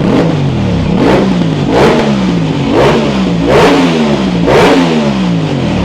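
Motorcycle engine revved in repeated throttle blips, about six in a row, each a quick rise in pitch that sinks back down, roughly one a second.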